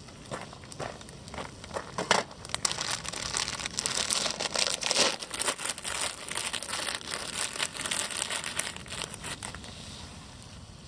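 Crinkling and rustling of some crumpled material being handled, with dense crackly clicks. It grows busy about two seconds in and thins out near the end.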